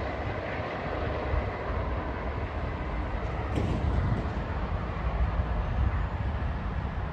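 Steady rumble of a GO Transit commuter train running on the nearby line.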